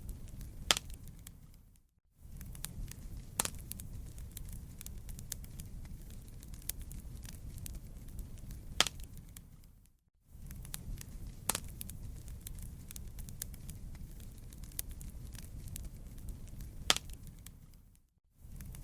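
Wood campfire burning: a steady low rumble with scattered sharp crackles and pops, a few of them loud. Three times, about every eight seconds, the sound briefly fades almost to silence and comes back.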